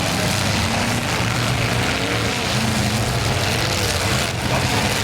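Demolition derby cars' engines running together, loud and steady, with some pitch glides from revving over a dense noise of the cars.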